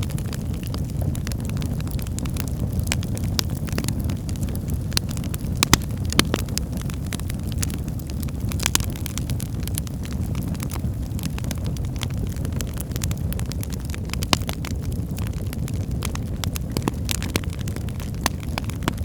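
Wood fire burning in a fireplace: a steady low rumble of flames with frequent irregular crackles and pops from the burning firewood.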